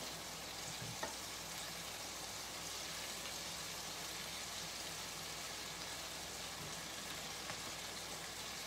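Chicken nuggets deep-frying in hot oil in a pot, a steady, even sizzle.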